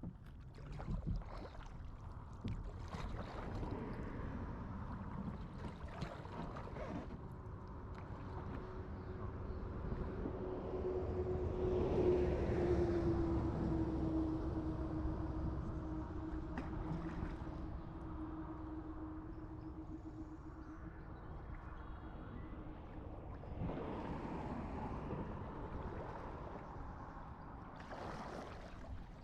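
Water lapping against a kayak, with occasional paddle strokes and some wind. A distant motor hum swells to its loudest about twelve seconds in, drops slightly in pitch as it passes, and fades out later.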